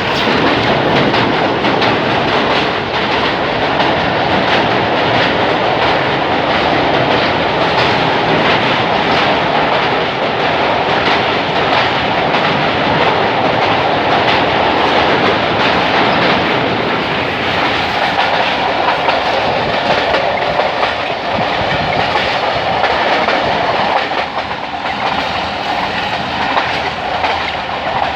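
Passenger train coaches rolling past at slow speed, wheels clicking steadily over the rail joints, a little quieter in the last few seconds.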